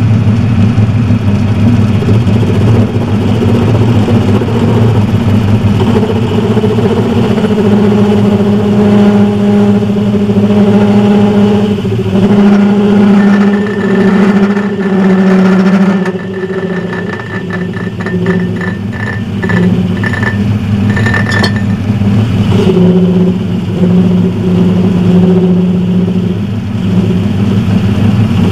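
Metal lathe running at speed, its motor and drive giving a steady hum while it cuts a metal spacer that comes off warm. Around the middle a high whine with rapid chatter from the cut comes and goes.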